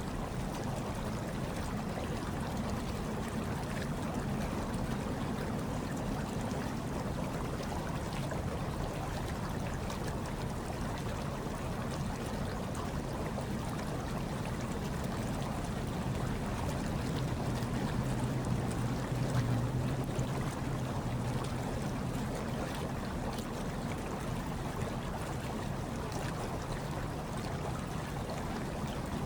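Hot tub water bubbling and churning steadily, with a low hum underneath that swells slightly about two-thirds of the way through.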